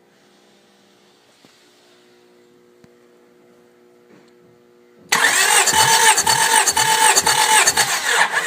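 Honda H23A 2.3-litre four-cylinder engine turned over by its starter motor for a compression test. About five seconds in, the starter whines and the engine cranks with an even, pulsing beat of two or three a second for about three seconds, without firing, then stops.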